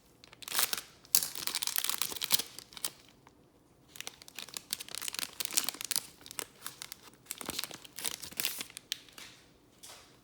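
Plastic wrapping of a trading-card pack being torn open and crinkled by hand, in three bursts of crackling with short pauses between.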